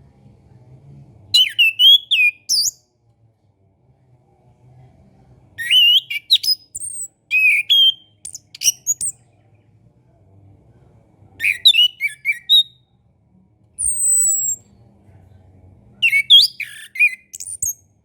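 Chestnut-capped thrush (anis kembang) singing in short bursts of fast, varied whistled phrases, about five bursts with pauses of a second or two between them. One burst, about fourteen seconds in, is a single falling whistle.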